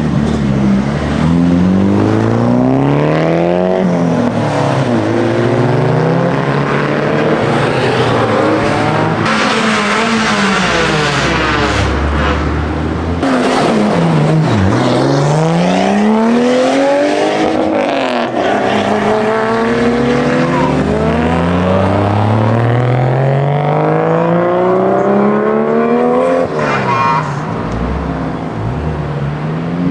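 Modified cars accelerating hard one after another, their engines revving up with a rising pitch, one after the other, with one engine note dipping and rising sharply about halfway through.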